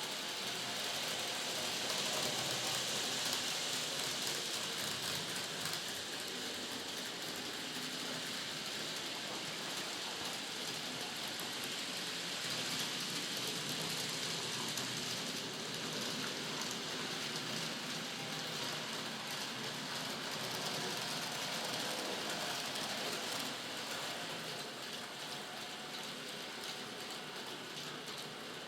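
N-scale model train running on its track: a steady whirring hiss from the small electric motor and the wheels on the rails, a little louder in the first few seconds and easing off near the end.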